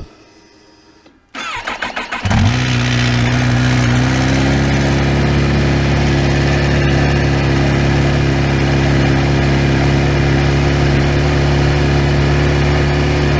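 Kawasaki H2 SX's supercharged inline-four engine started from cold: the starter cranks in quick pulses for about a second, the engine catches, its pitch steps up slightly a second or two later, and it then holds a steady fast idle while it warms up.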